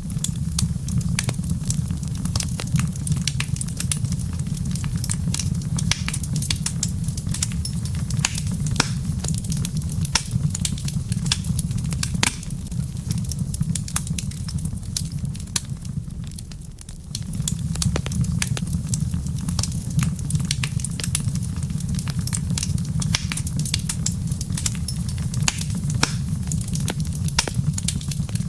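Wood fire crackling in a fireplace: a steady low rumble of flames under frequent sharp pops and crackles. The rumble drops away briefly a little past the middle, then returns.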